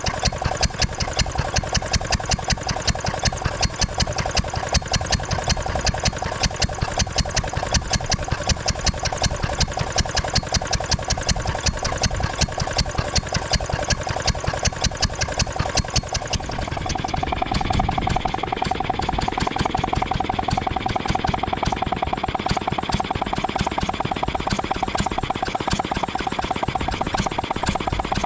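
Ruston & Hornsby 2PS vintage petrol-engined air compressor running with a steady, regular beat. About two-thirds of the way through the sound changes abruptly to a denser, more even running with a steady hum.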